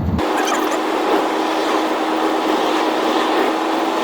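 Ford Thunderbird on the move: steady engine drone with road and wind noise and a steady hum. Just after the start the deep rumble drops away abruptly, leaving a thinner, hissy drone.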